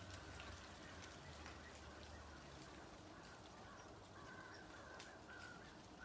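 Near silence: faint outdoor ambience with a low hum and a series of faint, distant bird calls about four seconds in.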